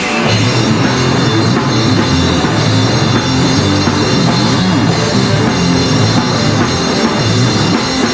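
Rock band playing live with a drum kit, in an instrumental passage between sung lines.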